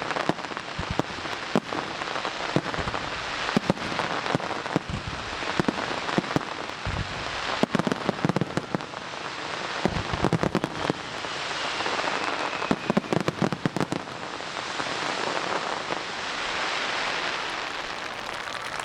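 Aerial fireworks bursting in quick succession: many sharp bangs over a continuous crackling hiss that swells and fades.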